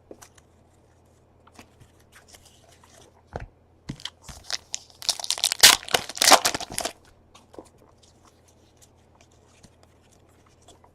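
A trading-card pack's wrapper being torn open and crinkled: a few small rustles and clicks, then a burst of tearing and crackling about five to seven seconds in.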